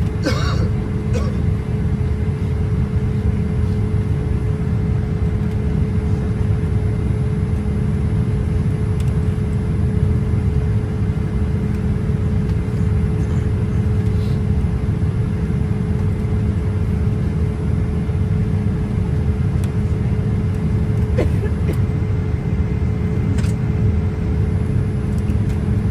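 Airliner cabin noise in flight: a steady low rumble of jet engines and airflow, with a constant hum running through it.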